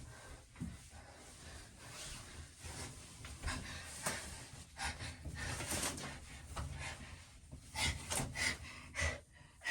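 A person climbing into a bathtub: clothing rustles and breathing, with a run of sharp knocks and bumps near the end.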